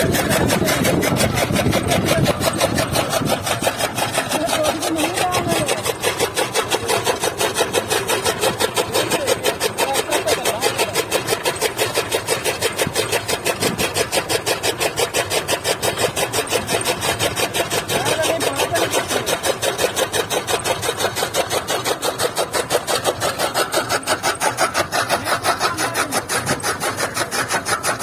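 Tractor-driven chaff cutter (toka machine) running with a fast, steady rhythm over the tractor's diesel engine. There is a heavier low rumble in the first few seconds.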